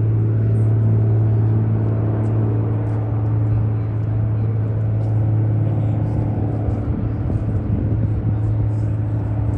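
A de Havilland float plane's radial engine running at a steady pitch. After about six seconds the tone weakens and a rougher, low rumbling noise takes over.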